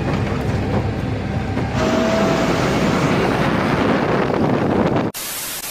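Steady truck engine and road noise, changing in character about two seconds in. Near the end a flat burst of hissing static cuts in.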